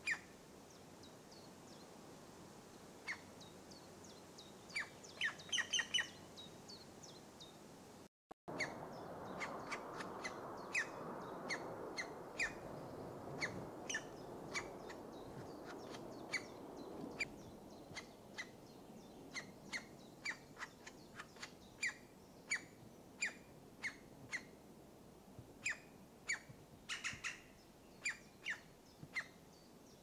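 Birds giving short, sharp calls, one or two a second, through the woodland. About a quarter of the way in the sound drops out briefly, then a spell of steady rushing noise runs under the calls for several seconds.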